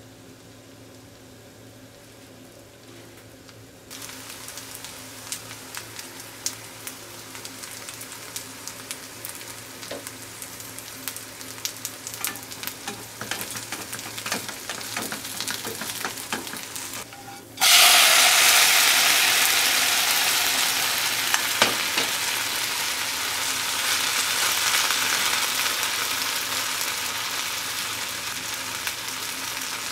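Okonomiyaki frying in a nonstick pan: a light crackling sizzle with small pops starts about four seconds in, then a sudden loud sizzle about eighteen seconds in as the pancake is turned over onto the hot pan, slowly fading.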